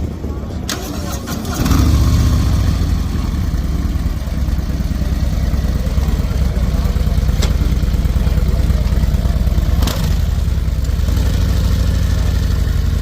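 Harley-Davidson V-twin with a Malparidos aftermarket exhaust starting up: it cranks briefly, catches and steps up loudly about a second and a half in, then idles steadily through the exhaust. A few sharp clicks sound over the idle.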